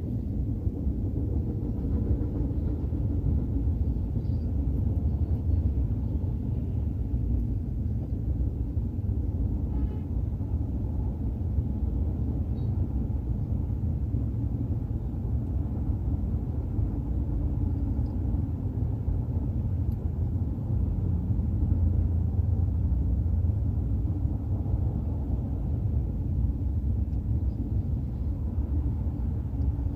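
Intermodal freight train's double-stack container well cars rolling past on the rails, a steady low rumble.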